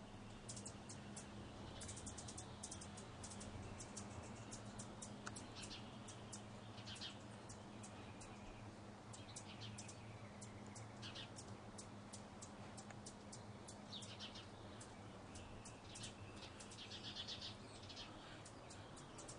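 Faint, rapid high-pitched chips and chattering trills of hummingbirds, coming in short runs throughout, over a steady low hum. This is the kind of chatter hummingbirds make while chasing and fighting over a feeder.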